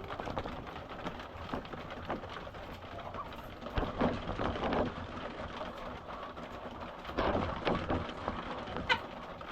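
Flock of laying hens calling and clucking while they feed, over a steady patter. Louder bursts of calls come about four seconds in and again about seven seconds in, with a short sharp rising call near the end.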